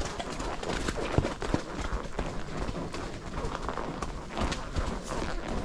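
A horse's hooves striking the ground at an uneven pace on a forest trail, a scatter of dull knocks with no steady beat.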